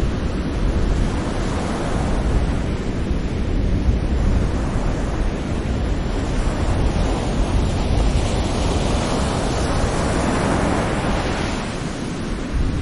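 Gentle sea waves breaking on the shore in a continuous rush of surf, with one wave swelling and washing in from about eight seconds to eleven seconds in.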